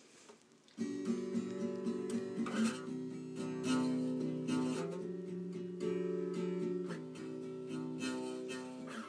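Acoustic guitar strumming chords, starting about a second in.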